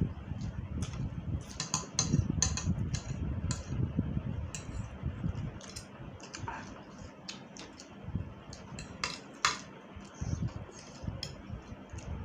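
Cutlery clinking and scraping irregularly against a dish while eating spicy noodles, with chewing sounds, heaviest in the first half.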